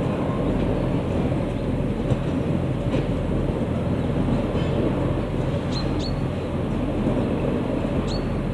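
Loaded wagons of a narrow-gauge peat railway rolling along the track, a steady low rumble and rattle.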